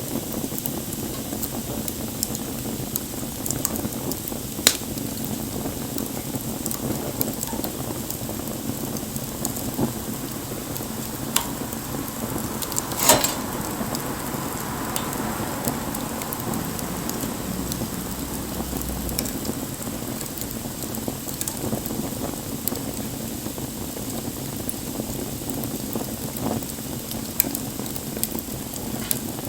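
Wood campfire burning with a steady hiss and scattered crackles, and two louder pops, about five seconds in and about thirteen seconds in.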